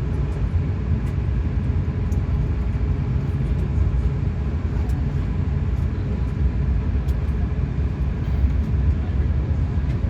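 Steady low rumble of cabin noise inside an Airbus A380-800 airliner, from its engines and airflow.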